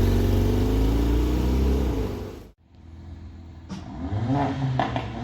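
Supercar engine running loudly with its pitch easing down, cut off abruptly about two and a half seconds in; then another supercar engine revving up with rising pitch near the end.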